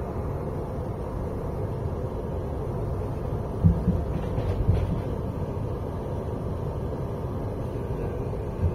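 Running noise of a moving passenger train: a steady low rumble of the coach on the rails, with a few short low thumps about three and a half seconds in, around four and a half seconds, and near the end.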